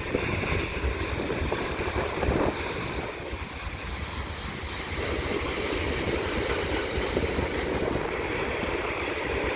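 Wind buffeting the microphone over the steady rumble of a long CN freight train's cars rolling past. It is a continuous noise with uneven gusts and no distinct tones.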